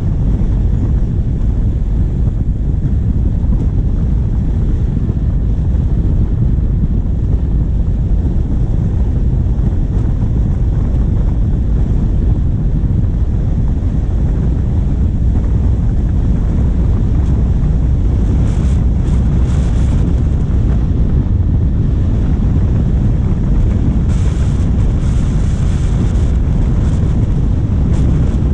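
Wind buffeting a bonnet-mounted camera microphone over the steady low rumble of a diesel vehicle driving along a forest track. Two short spells of high hiss come through past the middle and near the end.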